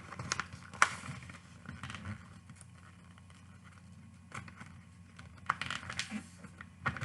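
Sheet of paper being folded and creased by hand: crisp crackles and rustles, loudest in the first second and again about five and a half seconds in, with a quieter stretch between.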